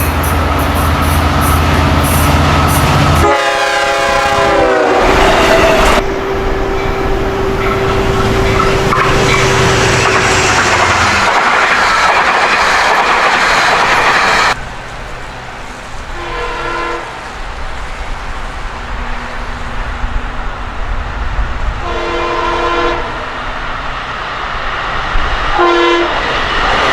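Long Island Rail Road passenger train passing a grade crossing: the locomotive runs loudly, then sounds its horn, a long chord that drops in pitch as it goes by, followed by rail and wheel noise. Later, three shorter, fainter horn blasts.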